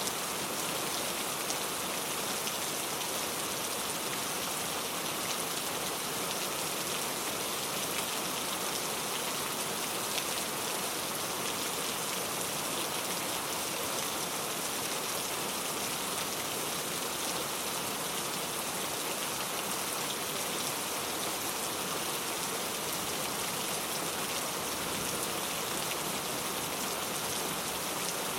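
Steady rain, a dense even hiss of drops.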